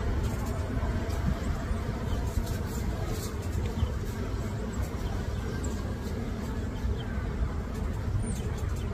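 Steady low rumble of wind buffeting an outdoor microphone, with a few faint light clicks.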